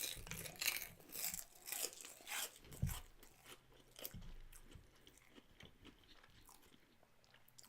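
A person chewing crunchy food close to the microphone: a run of crisp crunches in the first three seconds, then softer chewing that tails off.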